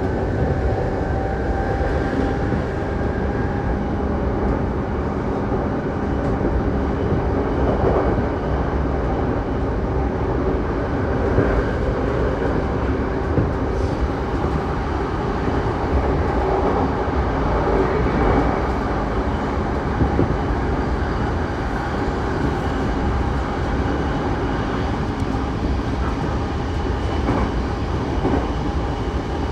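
Saikyo Line electric commuter train running at speed, heard from inside the car: a steady rumble of wheels on track with faint steady motor tones and a few louder clacks from the rails.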